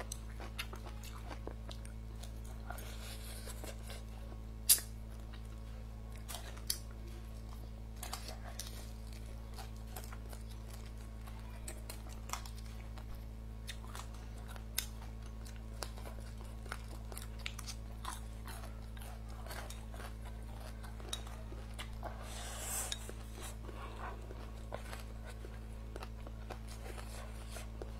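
A person chewing and crunching food close to a clip-on microphone, with scattered light clicks of wooden chopsticks against a bowl. One sharp click stands out about five seconds in, all over a steady low hum.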